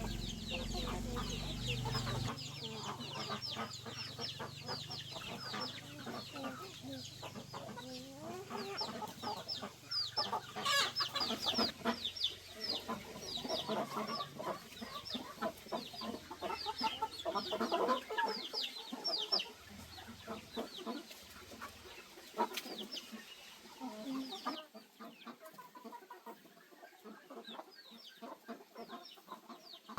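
Chickens clucking, with a dense stream of short, high calls that fall in pitch.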